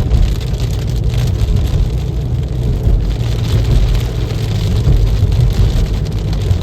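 Steady road and engine noise heard inside a moving car, with a deep low rumble and rain hitting the car.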